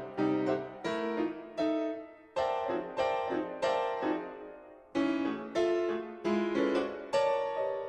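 Background piano music: a run of struck chords, each decaying before the next, with the last chord left ringing near the end.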